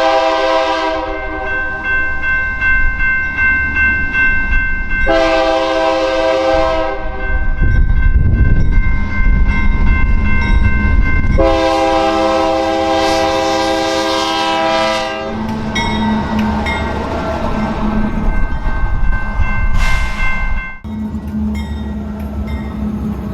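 Diesel locomotive air horn sounding three times: a blast ending about a second in, a second of about two seconds around five seconds in, and a longer one of about four seconds near the middle. Between and after the blasts there is the locomotive's engine rumble and rolling noise as it passes, heaviest around eight to eleven seconds in, and the engine runs on steadily through the later part.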